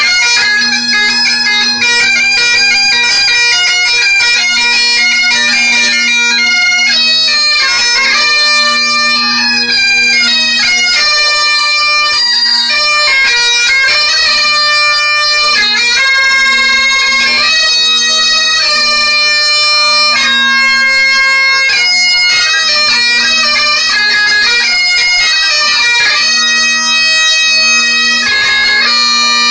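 Two bagpipes playing a quick melody together over their steady drones.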